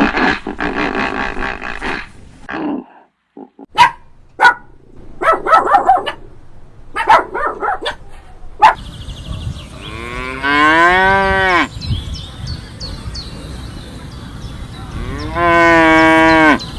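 Cow mooing: two long calls, one about ten seconds in and one near the end, each lasting about a second and a half. Before them come shorter, broken animal sounds.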